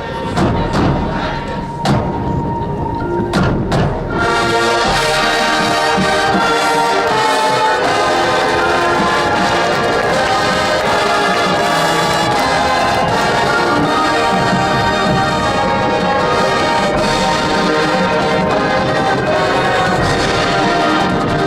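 Marching band's brass and percussion playing full, sustained chords, coming in loudly about four seconds in after a few sharp percussive clicks.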